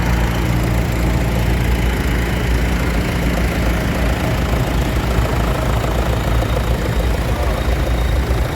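Tractor engines running steadily at low revs close by, a deep, even engine note.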